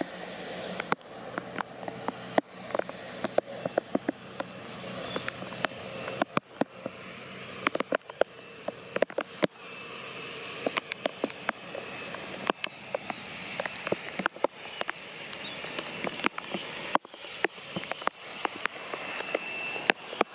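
Heavy rain, with large drops striking close to the microphone in sharp, irregular taps over a steady hiss.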